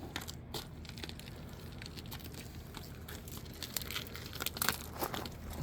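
Irregular rustling and crinkling with scattered light clicks and crunches, busiest about four to five seconds in.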